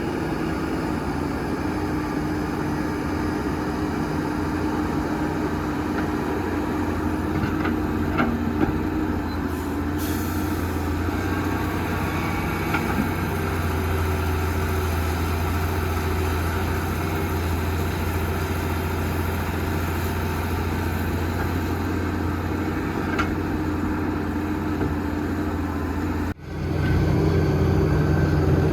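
Heavy diesel construction machinery running steadily at a work site, with a few short metallic clanks. Near the end the sound cuts off briefly and comes back louder.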